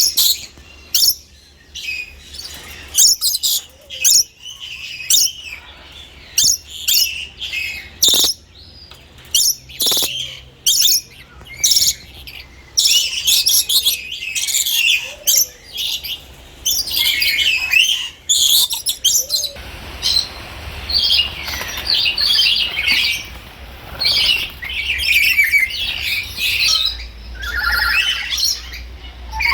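Many birds calling at once: a dense run of short, high chirps and squawks overlapping one another.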